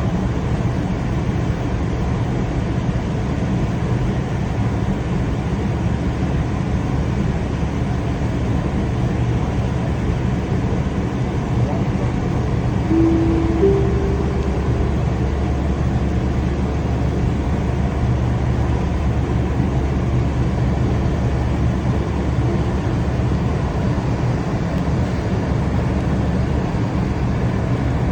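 A passenger train running: a steady low rumble, with a brief two-note rising tone about halfway through.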